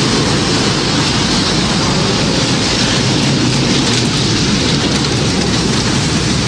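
Tornado sound effect: a steady, dense rush of wind and rain noise, even in level throughout, with no siren tone standing out.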